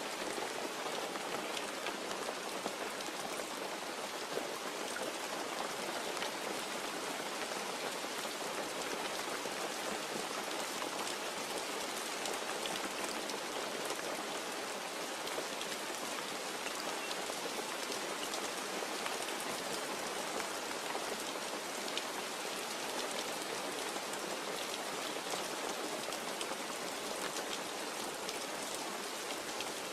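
Steady rain falling, an even hiss sprinkled with fine ticks of individual drops.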